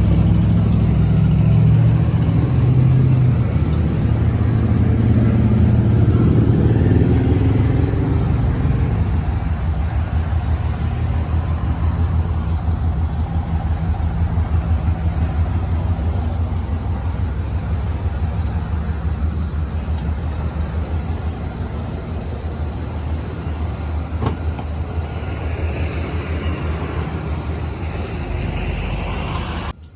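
1992 Cadillac V8 engine running with a steady low exhaust note. It rises in pitch right at the start, then settles and eases off gradually. The sound cuts off suddenly at the very end.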